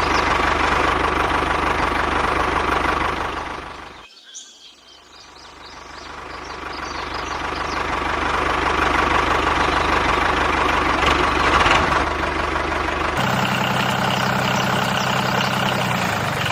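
A small engine running. It fades away about four seconds in, comes back up over the next few seconds, and switches abruptly near the end to a different steady hum.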